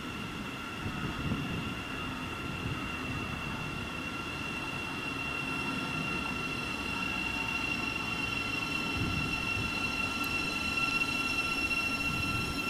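Train running on the line, a rumble with a steady high-pitched whine over it, growing slowly louder.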